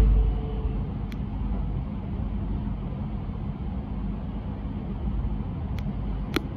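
Low, steady rumble inside the cabin of a Metro X'Trapolis electric train as it runs slowly along the platform of its terminating station, with a few faint clicks about a second in and near the end.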